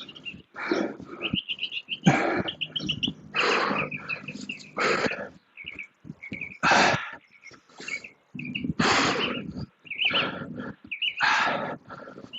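Hard, rhythmic breathing during exertion, a loud breath roughly every second or so. Small birds chirp in quick repeated bursts between the breaths.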